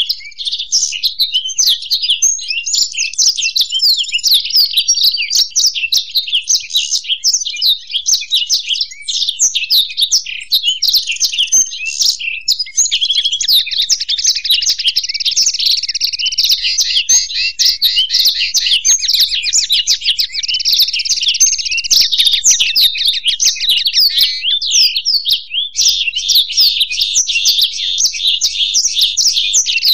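A blackthroat and a European goldfinch singing together without pause in fast, dense, twittering song. About halfway through it runs into a long, rapid, even trill lasting several seconds, then breaks back into quick varied twittering.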